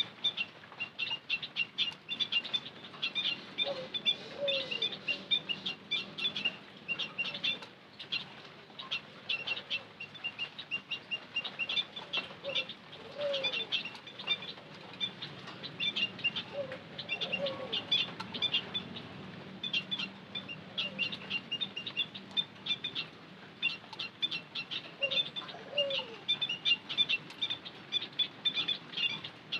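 White-headed munias chirping: a dense, unbroken stream of short, high chirps.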